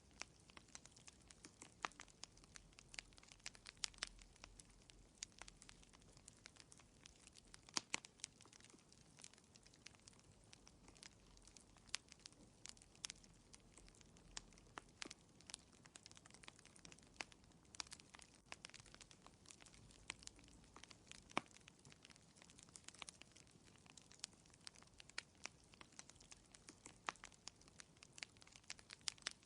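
Wood fire crackling in a fireplace: irregular small pops and snaps, several a second, now and then a sharper louder one, over a faint hiss.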